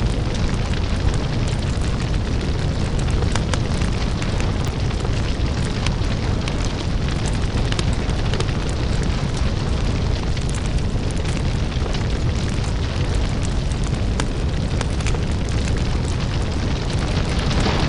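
Crackling lava fire: a deep, steady rumble with scattered sharp crackles and pops over it.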